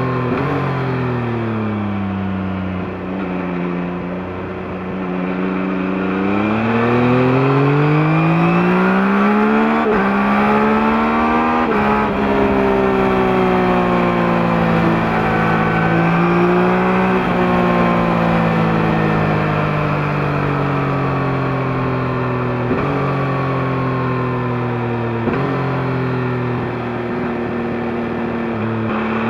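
Yamaha MT-09's three-cylinder engine running through the stock exhaust while riding. Revs fall off at first and hold low, then climb in pitch with a brief shift break, ease off and fall slowly with a couple of short breaks, and pick up again at the very end.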